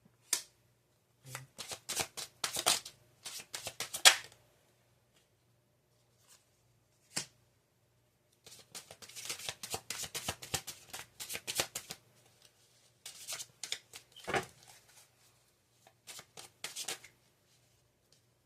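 A deck of tarot cards shuffled by hand in several bursts of quick flicking and riffling, with short pauses between the bursts.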